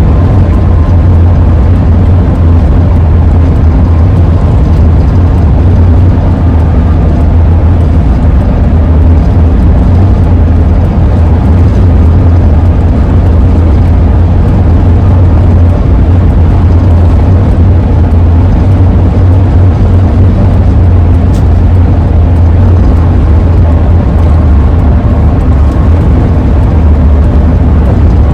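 Steady road and engine noise inside the cab of a 2001 Ford E-350 camper van driving along, a heavy, even low rumble.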